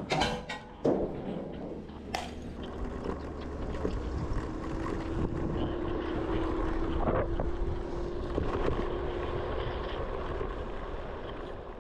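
Wind buffeting the microphone over a steady low rumble, with a faint motor hum slowly rising in pitch in the middle; a few sharp knocks near the start.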